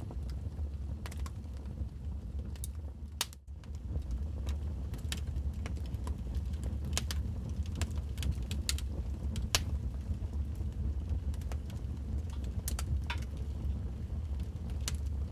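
Wood fire crackling, with sharp irregular pops and snaps over a low steady rumble; the sound dips out briefly about three and a half seconds in.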